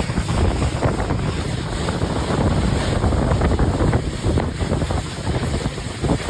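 Strong wind buffeting the microphone over open water, a rough, irregular rumble with water noise beneath it.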